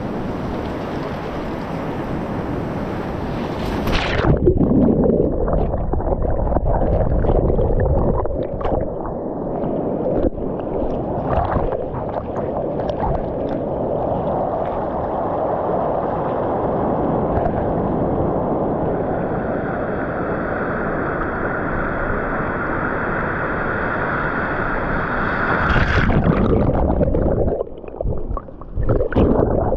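Shoreline surf heard underwater: muffled churning and gurgling of breaking waves. The first four seconds are open and hissy, then the sound cuts suddenly to the dull underwater rumble. A brief hissy stretch returns near the end.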